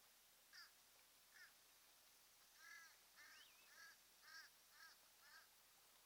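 Faint bird calls: short, harsh calls repeated three times nearly a second apart, then a quicker run of about seven at roughly two a second. A faint rising-and-falling whistle sounds about three seconds in.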